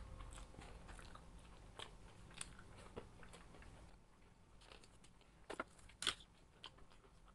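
Faint close-up mukbang eating sounds: a person biting and chewing crunchy food, soft crackly clicks, with two louder crunches about five and a half and six seconds in.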